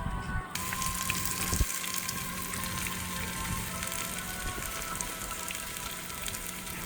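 Minced garlic tipped into hot butter and olive oil in a pan, starting to sizzle suddenly about half a second in and sizzling steadily, with a single knock a second later. Background music plays faintly.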